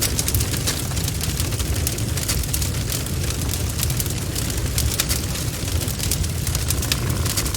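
Bonfire burning: a steady low rumble of the flames with frequent sharp crackles and pops of burning wood at irregular intervals.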